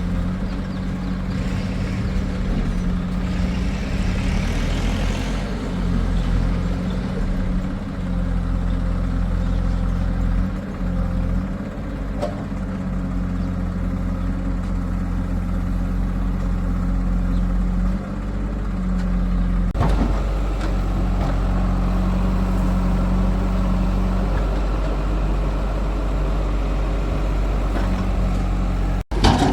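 Heavy diesel engines of a backhoe loader and tractor running steadily at work, a low even drone that cuts out briefly near the end.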